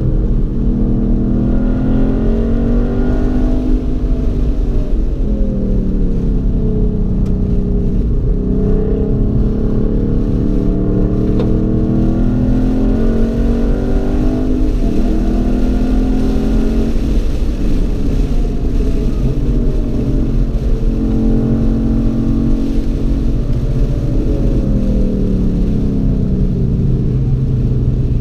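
Car engine heard from inside the cabin at track pace, its pitch climbing under acceleration and dropping away several times as the car shifts and slows for corners, over a steady low road and wind rumble.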